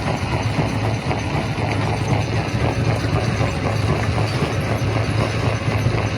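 Primary rock crusher running: a steady low machine drone under a dense, irregular clatter of rocks knocking together.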